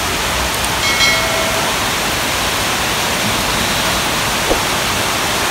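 Heavy rain pouring down in strong, gusty wind: a steady, loud rushing hiss of rain driving onto roofs and roads. A brief faint tone sounds about a second in.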